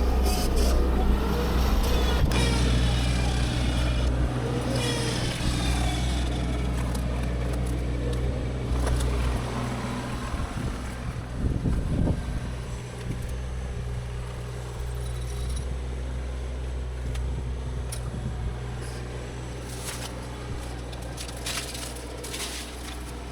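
Diesel engine of heavy machinery, likely the excavator clearing the brush, running steadily with a low drone, with scattered cracks and knocks from the work.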